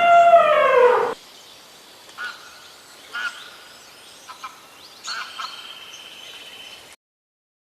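A loud, drawn-out animal call that falls in pitch as it ends about a second in, followed by a few faint short bird-like chirps, then an abrupt cut to silence near the end.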